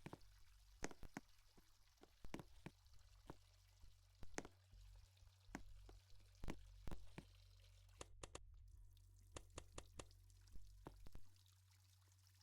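Faint, irregular clicks and ticks, a few each second, over a low steady hum.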